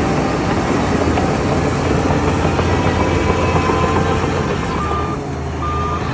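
Heavy diesel machinery running steadily under load, with short high-pitched tones near the end.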